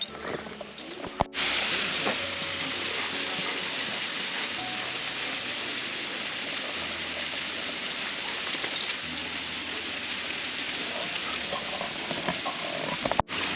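Steady rush of flowing stream water, starting abruptly about a second in and cutting off just before the end.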